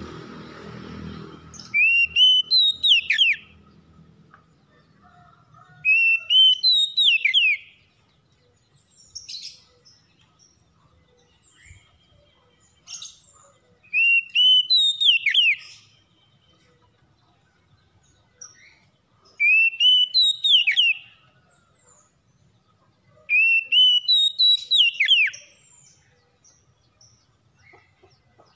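Oriental magpie-robin (kacer) singing: a loud whistled phrase repeated five times, each about a second and a half long, with a climbing run of notes that ends in quick downward sweeps. Faint high chirps fall in the gaps between phrases.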